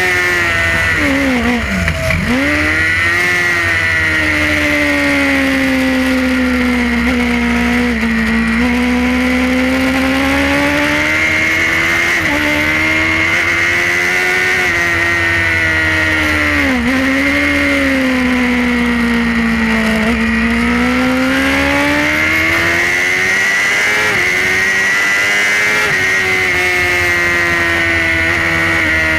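Suzuki GSX-R superbike engine at racing speed, heard from on board. The pitch drops sharply about two seconds in, under braking and downshifts, then climbs and sags in long sweeps, with brief dips at the gear changes.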